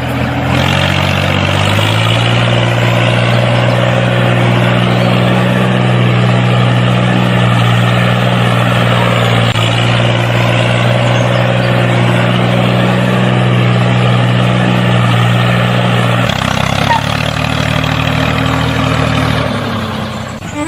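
A vehicle engine running steadily. Its pitch climbs in steps over the first two seconds, holds level, then drops to a lower hum about three-quarters of the way through, as if the engine slows.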